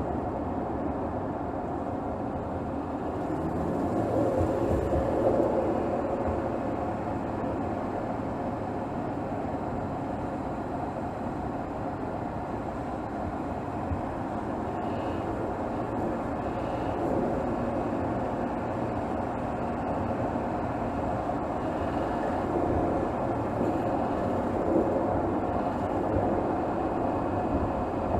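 2024 Mercedes GLS 450's 3.0-litre turbocharged inline-six, heard from under the hood, running steadily at highway speed together with a rush of road noise. It swells a little about four seconds in and again near the end.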